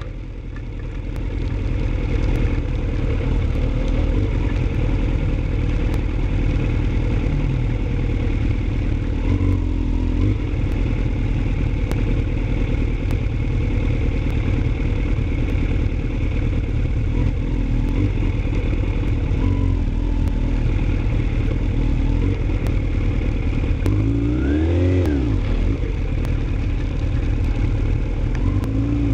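Motorcycle engine running under a steady low rumble, with one rise and fall in engine pitch about 24 seconds in.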